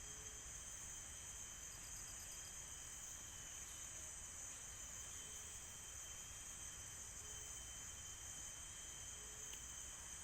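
Steady high-pitched buzzing of a forest insect chorus with a thin continuous whine under it. Short, faint lower calls recur every couple of seconds, and a quick pulsed trill sounds about two seconds in.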